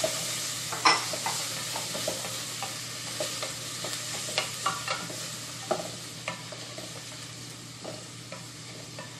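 Onion, tomato and bell pepper sizzling in hot olive oil in a metal pot while a wooden spoon stirs them, with scattered knocks of the spoon against the pot, the loudest about a second in. The sizzle eases somewhat in the second half.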